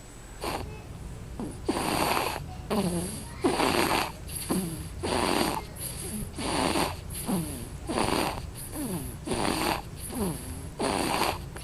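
A baby making repeated odd breathy noises: a rasping, noisy breath followed by a short voice sound that falls in pitch. The pair repeats steadily about every second and a half.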